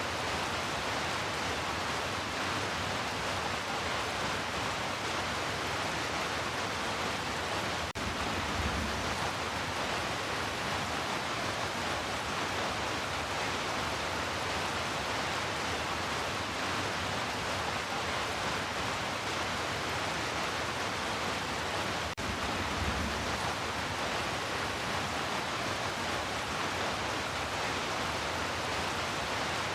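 Heavy rain falling as a steady, even hiss. Twice, about fourteen seconds apart, there is a brief dip followed by a short low rumble.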